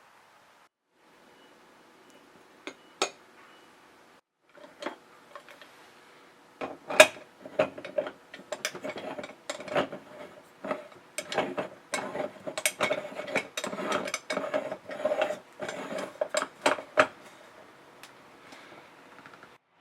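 Rapid, uneven clicking and rattling of a small hand-worked mechanism, a few scattered clicks at first and then a dense run of clicks over a steady hum for about ten seconds before it stops.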